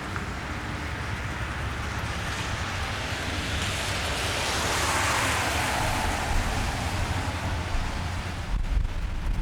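A car passing on a wet street, its tyres hissing on the wet road: the hiss swells to a peak about five seconds in and fades away, over a steady wash of rain and a low rumble that grows near the end.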